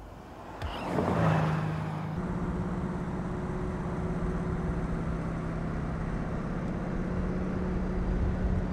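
Mercedes-AMG C63 Estate's twin-turbo V8 passing close about a second in, its note dropping as it goes by. It then settles into a steady engine drone at constant revs, which cuts off abruptly at the end.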